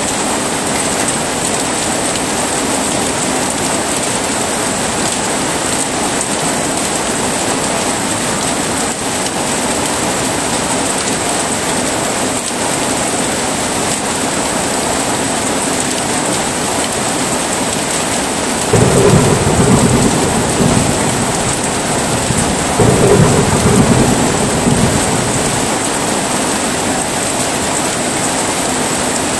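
Heavy rain falling steadily, with two rolls of thunder rumbling past the middle, a few seconds apart.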